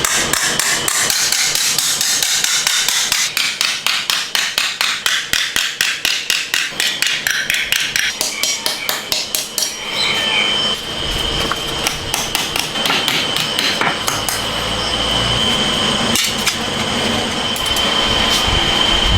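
Rapid hammering, about five blows a second, loud and even. About halfway through, the separate blows give way to a steadier mechanical clatter with a thin, steady high whine over it.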